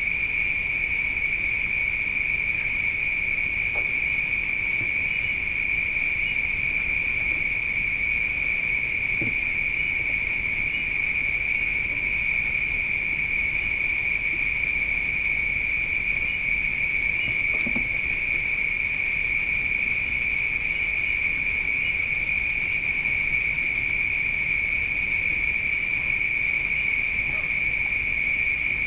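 Chorus of night insects, crickets trilling continuously at two steady pitches, with a few faint small ticks underneath.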